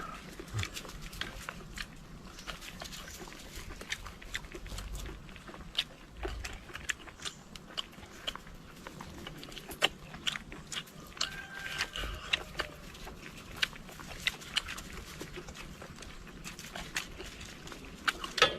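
Close-up eating sounds: wet chewing and lip-smacking with many irregular sharp clicks and crackles.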